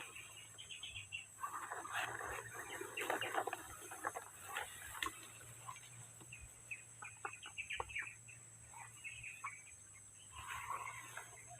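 Chickens clucking, with scattered short clicks and taps in between.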